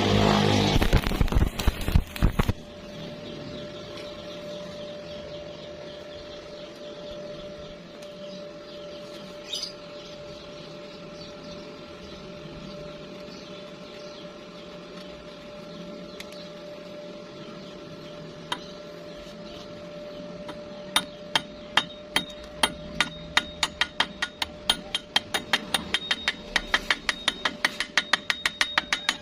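A short burst of dense crackling, then a steady hum. In the last third, a hammer taps rapidly on steel, several strikes a second, each with a bright ring.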